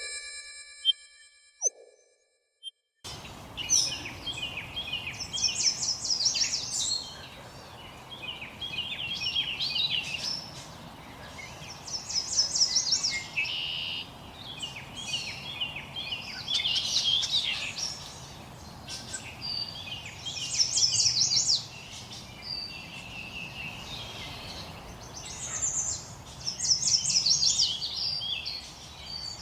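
A songbird singing the same short trilled phrase about every four seconds over a steady soft background hiss. The first two seconds hold a brief electronic tone that cuts to silence before the outdoor sound begins.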